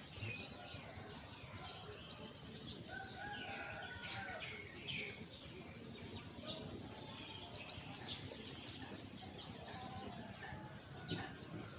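Birds chirping: many short, separate high chirps, with a lower warbling call about three seconds in.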